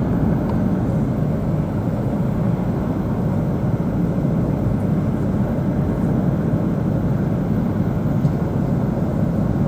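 Steady low rumble of an E2-series Shinkansen running at speed, heard from inside a passenger car.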